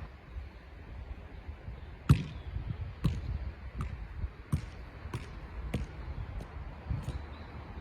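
Football being juggled: a run of sharp kicks of the ball off the foot in keep-ups, about one every two-thirds of a second, the first and loudest about two seconds in.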